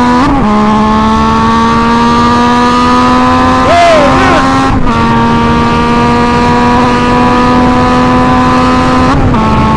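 Yamaha MT-09's three-cylinder engine, its muffler end can removed so it runs nearly straight-piped, very loud under way. The note holds steady and climbs slowly, with brief dips near the start, in the middle and near the end.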